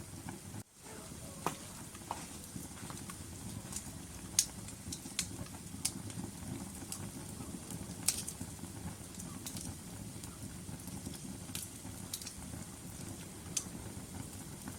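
Wood fire burning in a fireplace: a steady low rumble with irregular sharp crackles and pops from the burning logs, one pop about four seconds in louder than the rest.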